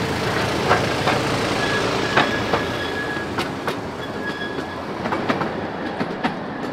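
A miniature 12-inch gauge diesel train running past: its wheels click sharply and irregularly over the rail joints, with a few brief high squeals over a steady running noise.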